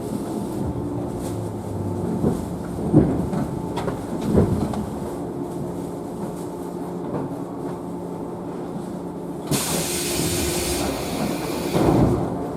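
Inside a JNR 113 series electric train standing in a station: a steady hum from its onboard equipment, a few knocks, and a burst of compressed-air hiss about ten seconds in that lasts about a second and a half.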